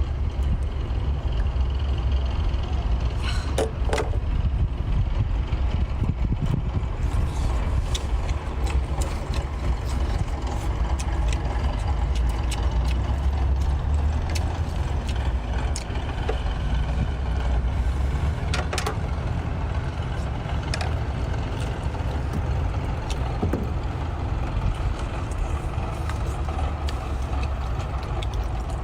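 Engine running steadily as a low drone, with scattered sharp clicks and taps over it.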